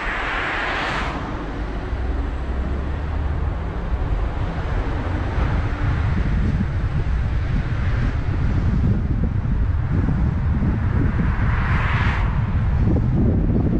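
Car driving on the road: a steady low rumble of road and tyre noise with wind noise on the microphone, growing louder a few seconds in. Short rushing swells come near the start and again about twelve seconds in.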